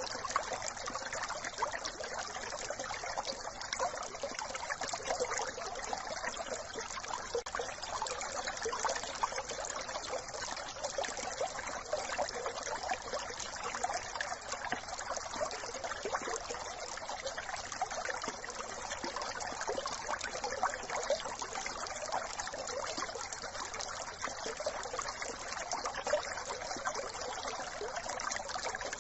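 Small brook trickling and babbling steadily over stones.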